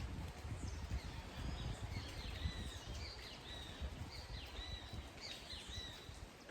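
Steady rain with a bird calling repeatedly over it: short arching whistled notes, about two a second, from about a second and a half in until near the end.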